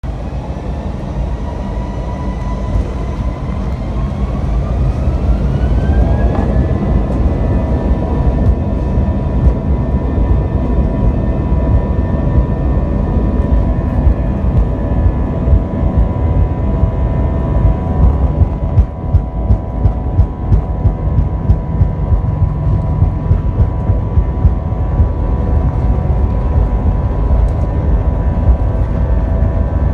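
Airbus A321 jet engines on the take-off roll, heard from inside the cabin: the engine whine rises in pitch as they spool up to take-off thrust a few seconds in, then holds steady over a heavy rumble. About halfway through, a run of regular thumps joins as the wheels roll fast over the runway.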